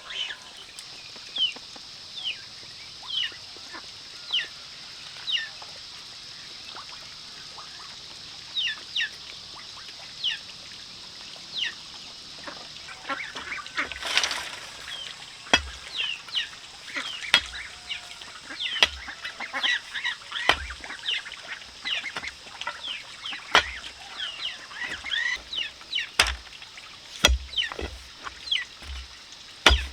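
Young chicks peeping: short falling chirps, about one a second at first and more crowded in the second half. Scattered knocks and a brief rustle about fourteen seconds in.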